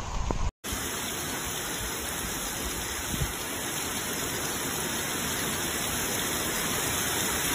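Heavy rain pouring down in a steady, even rush, after a brief dropout about half a second in.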